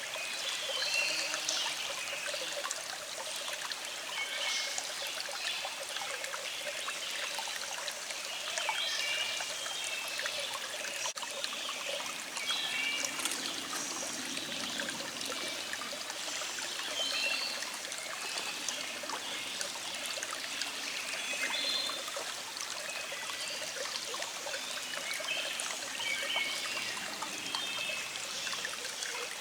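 Small stream flowing and trickling steadily, with birds singing in the background.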